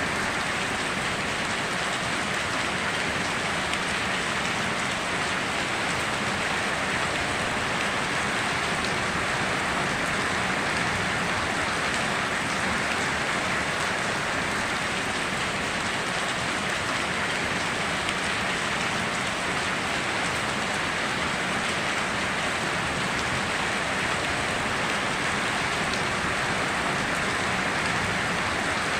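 Steady heavy rain falling, an even, unbroken hiss of rain on surfaces.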